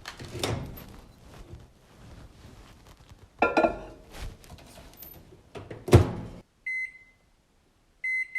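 Microwave oven being loaded and set: a few knocks and a clatter, then the door shut with a loud thunk about six seconds in, followed by two short keypad beeps.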